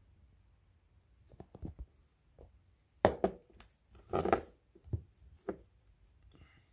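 Hands handling engine parts and tools: a scattered series of light clicks and knocks, the loudest a sharp knock about three seconds in, with a short scuffing noise just after four seconds.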